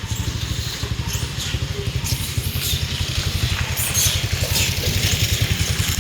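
An engine idling with a fast, even low throb, and faint high chirps over it.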